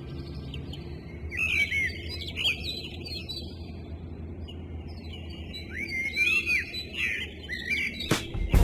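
Small birds chirping in two short bouts of quick, sliding calls, over a faint low background noise.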